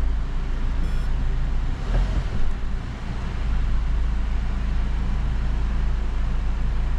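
2007 Honda CR-V's engine running steadily at low speed with a low hum as the car is reversed down off the ramps.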